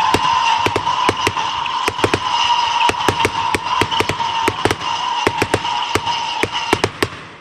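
Firework crackling in rapid, irregular sharp pops over a steady high whistle, cutting off suddenly near the end.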